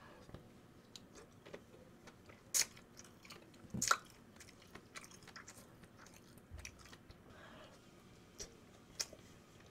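Quiet eating sounds: biting and chewing spicy tteokbokki rice cakes, with a few sharp clicks, the loudest about two and a half and four seconds in.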